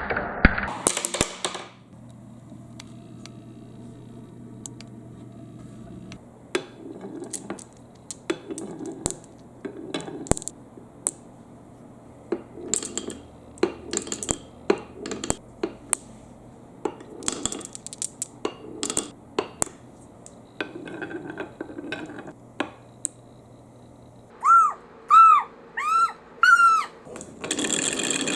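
Marbles rolling and clacking down a wooden marble run: a string of sharp knocks and clicks with short rolling rattles between them. Near the end come four short, loud tones, each rising and then falling in pitch.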